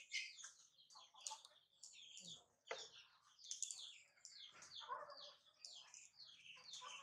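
Faint, busy chirping of small birds: many quick, high chirps overlapping one another. A single soft knock sounds a little under three seconds in.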